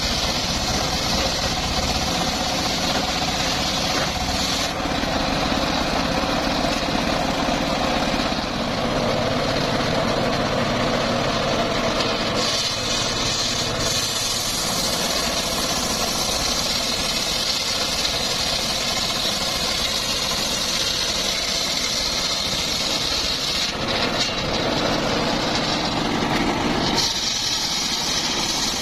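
Homemade engine-driven circular sawmill running steadily, its blade ripping teak wood. The tone shifts several times.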